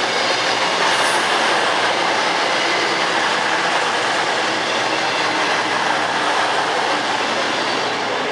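A train running through the station: a steady, loud rail noise that eases slightly near the end.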